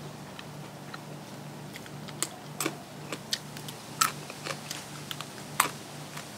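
Close-up eating sounds: a person biting and chewing, with irregular sharp clicks and crackles, the loudest about four and five and a half seconds in. Beneath them runs a low hum that pulses about twice a second.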